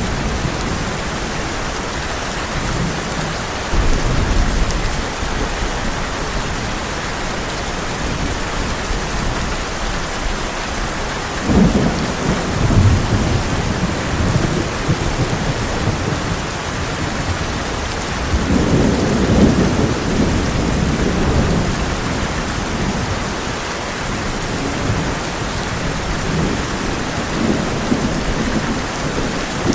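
Heavy rain drumming steadily on a tin roof, with low rolls of thunder swelling up several times, the strongest about twelve and twenty seconds in.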